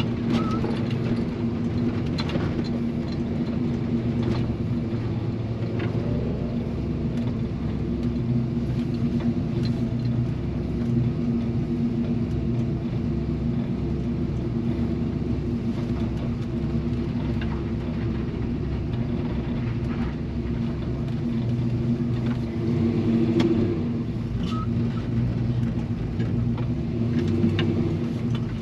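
1983 Chevy C-10 pickup engine running steadily, with mild swells in level.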